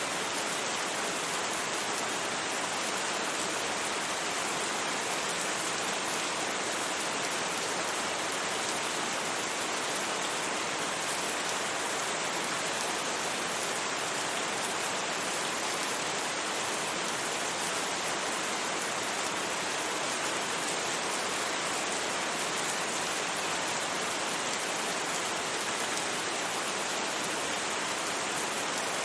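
Steady rain falling, an even unbroken hiss with no distinct drops, thunder or other events.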